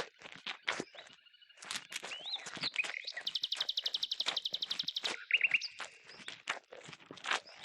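Birds chirping, with a fast trill of about ten notes a second lasting nearly two seconds in the middle, among many sharp clicks and taps.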